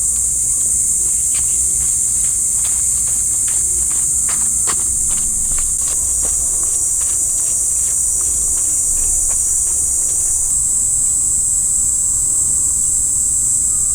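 Insects droning: a steady high-pitched shrill, with irregular light clicks and snaps for most of the time.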